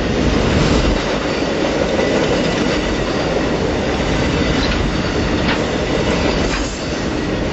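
Amtrak Auto Train's enclosed auto-rack freight cars rolling past close by: a steady, loud rumble of steel wheels on rail, with a few faint clicks.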